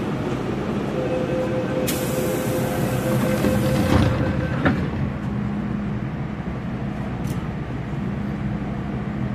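MTR Kwun Tong Line M-Train running on the rails with a steady rumble. About two seconds in, a hiss lasts roughly two seconds, followed by a short clunk.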